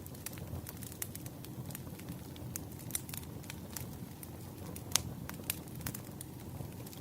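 Wood fire crackling, with irregular sharp pops over a steady low rumble; the loudest pop comes about five seconds in.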